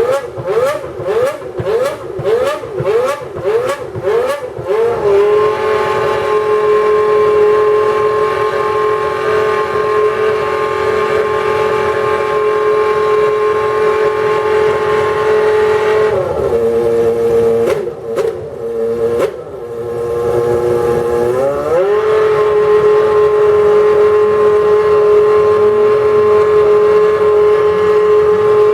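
McLaren Formula 1 car engine revving in a string of quick rising blips, then held at a steady high pitch. Midway the pitch drops and wavers for a few seconds, then rises again and holds steady.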